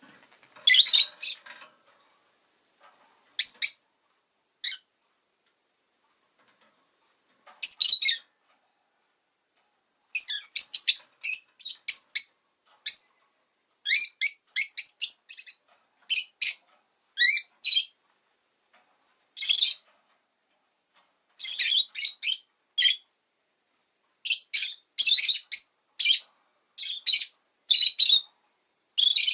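Rosy-faced lovebird chirping: short, high-pitched calls, a few spaced apart at first, then quick runs of chirps from about ten seconds in.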